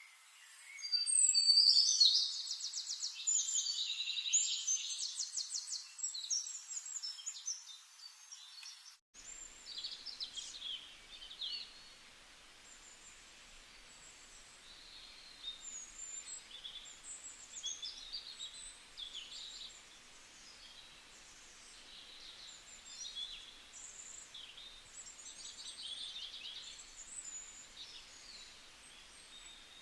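Forest birdsong: one close, loud bird sings rapid trilling phrases for about nine seconds. The sound then cuts out briefly, and a quieter chorus of many birds chirping follows over faint background hiss.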